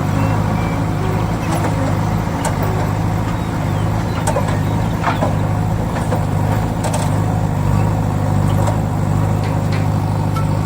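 Small motor running steadily with an even hum, with a few light clicks.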